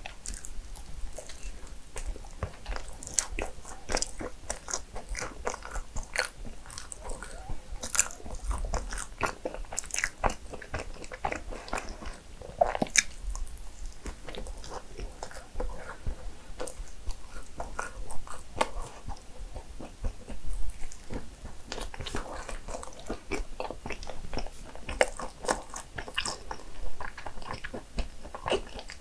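A person chewing and biting into cinnamon rolls, with many short, irregular mouth clicks and bites and no talking.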